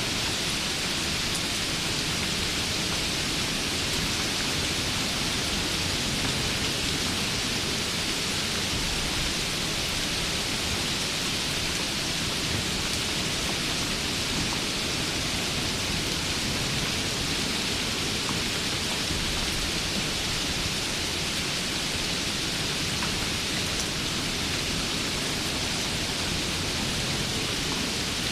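Steady, constant rain, an even hiss with a low rumble underneath. There are faint scattered drop ticks.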